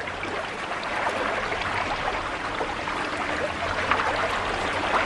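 River water rushing steadily, with many small splashes.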